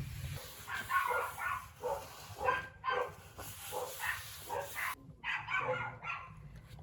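A dog barking repeatedly in short, separate barks.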